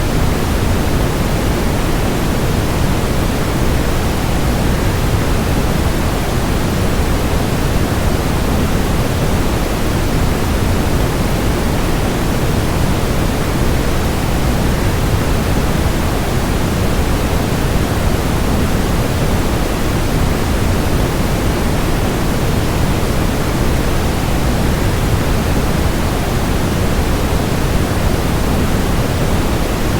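Waterfall white noise: a steady, unbroken rushing hiss, heaviest in the low end, with no separate splashes or changes in level.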